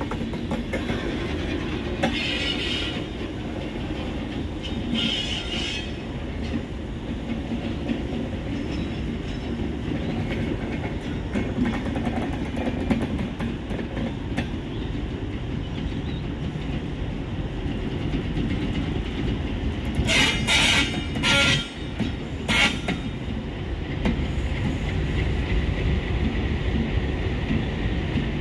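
Passenger train coaches rolling past on the rails with a steady low rumble of wheels on track. A few short high-pitched bursts cut in, the loudest cluster about twenty seconds in.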